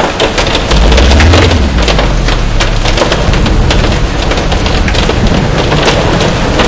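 Heavy rain and hail pelting a car, a dense hiss thick with sharp, irregular ticks of stones striking. A deep rumble swells about a second in and dies away over the next second or so.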